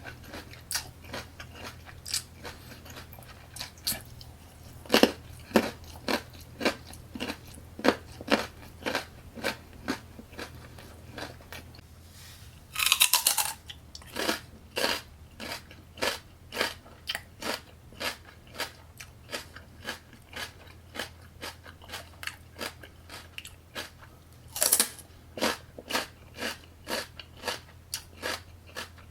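A person chewing crunchy food close to the microphone: crisp crunches about two to three a second, with louder bites about five seconds in, a dense burst of crunching midway and another near the end. A faint low hum runs underneath.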